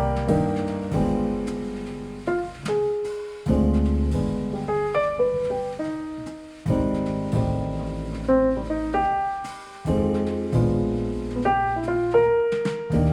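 Piano music played back through Visaton FR10 4-inch full-range drivers in small bass-reflex cabinets, heard through a microphone in the room: a run of struck notes that ring and decay, over low bass notes.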